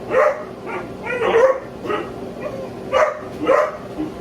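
A dog barking repeatedly, short barks about every half second to a second, with a gap in the middle.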